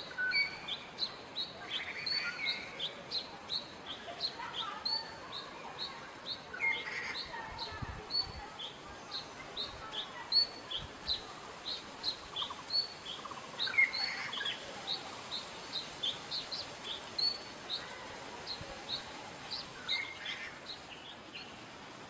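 Songbirds chirping: a steady series of short high chirps, about two to three a second, with a few lower calls mixed in now and then.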